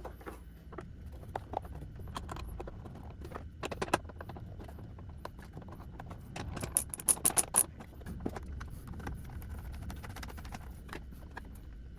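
Hands fitting a motorcycle battery in place: scattered clicks, knocks and taps of plastic and metal parts. A quick run of sharp ticks comes about seven seconds in.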